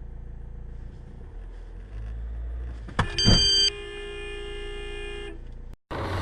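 Car engine and road rumble from inside the car, then about three seconds in a sudden sharp sound followed by a car horn sounding for about two seconds, loudest in its first split second.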